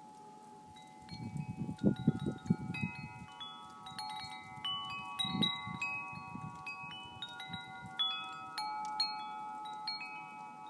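Wind chimes ringing in a snowstorm, their long overlapping tones struck more and more often as the wind picks up. Low gusts of wind rumble on the microphone about a second in and again near the middle.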